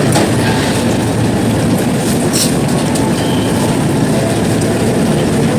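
A train passing, with a loud, steady rumble of its wheels on the rails.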